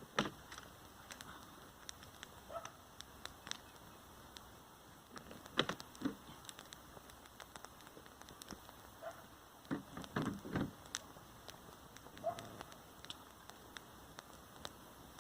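Faint rain with scattered, irregular drops tapping, a few of them louder knocks, most clustered about ten seconds in.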